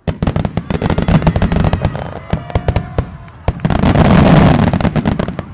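Fireworks finale barrage: a rapid, dense string of bangs and crackles from aerial shells, with a few whistles. A second, heavier volley comes about halfway through, then the barrage cuts off near the end.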